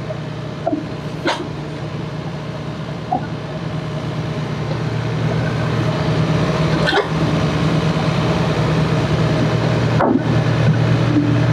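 Excavator's diesel engine running steadily and building in loudness partway through, with a few sharp knocks from the machine at work.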